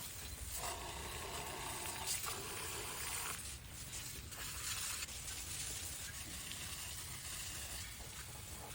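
Water spraying onto a stripped small-block V8 engine block, washing off oil and grease: a steady hiss that shifts in tone as the spray moves over the block.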